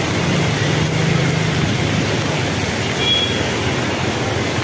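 Heavy rain pouring down in a steady hiss, with a steady low hum underneath and a brief high tone about three seconds in.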